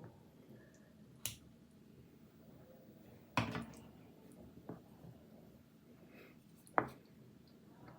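Four sharp clicks and knocks of things being handled while cooking, the loudest a little past the middle with a short ringing tail, over a quiet room.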